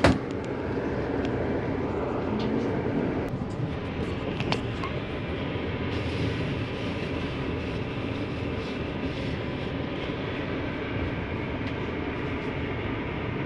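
Passenger train running at speed, heard from inside the carriage: a steady rumble and rattle of wheels on the rails and the car body. A sharp click at the very start is the loudest sound, and a smaller one comes about four and a half seconds in.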